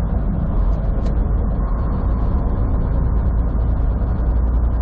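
Steady engine and road rumble inside a moving vehicle's cabin, with a brief click about a second in.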